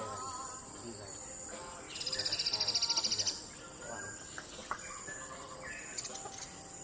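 Buff-rumped woodpecker giving a rapid, high-pitched trill of about a dozen evenly spaced notes, lasting just over a second, over a steady high insect buzz.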